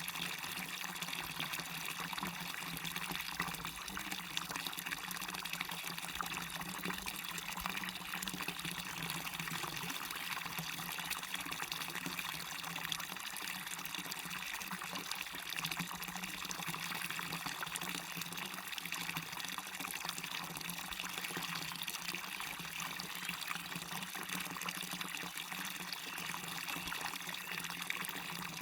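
Waterfall splashing steadily, an even rush of falling water with constant small splashes and no change in level.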